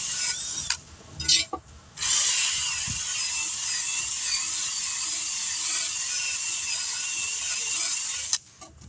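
Handheld power tool running in two spells, cutting out briefly about a second in and stopping near the end, its pitch wavering under load as it cleans old bead sealer off a wheel rim.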